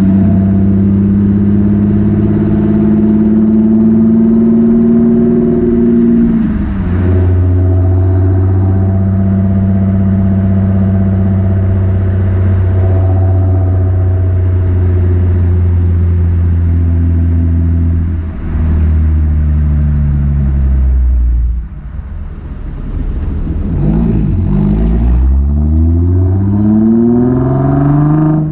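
Nissan 350Z's 3.5-litre V6 under way through a MotorDyne aftermarket exhaust. It holds a steady engine note for long stretches, dipping around a quarter of the way in and again about three-quarters through. Near the end it revs up in several quick rising climbs.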